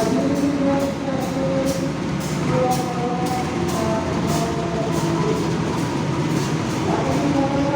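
Passenger train rolling into a station, its wheels clacking in a steady run over the rail joints. A melody plays underneath.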